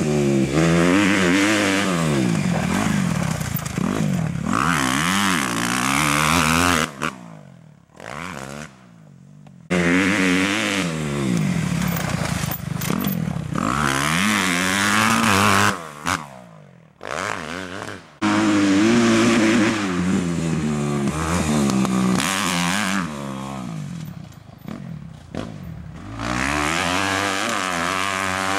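Kawasaki KX250F motocross bike's four-stroke single-cylinder engine revving up and down hard as it is ridden around the track. The sound drops away sharply twice, for about two seconds each time.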